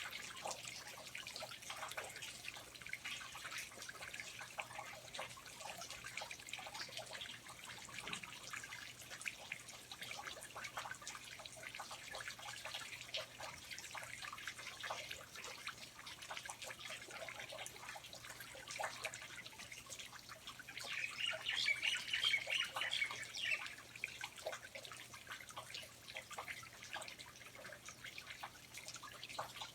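Rainforest water dripping and trickling, a dense steady patter of small drops. There is a louder stretch of sharper, higher ticks about two-thirds of the way through.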